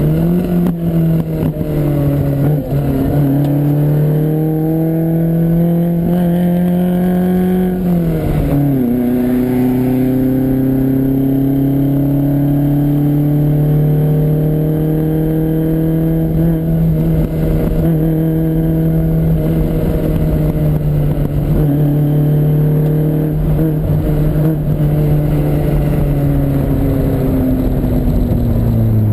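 Lancia Fulvia's narrow-angle V4 engine heard on board under load, the revs climbing for several seconds. A gearshift about eight seconds in drops the pitch, after which the engine pulls steadily and eases off near the end.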